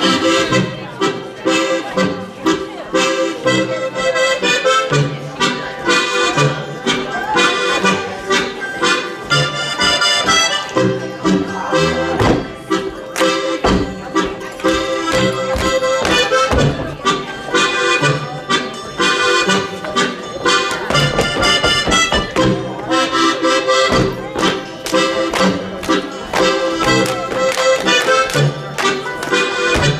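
Accordion playing a lively Bavarian folk dance tune, with the sharp slaps and stomps of Schuhplattler dancers striking thighs, soles and floor in time with the music, thickest around the middle.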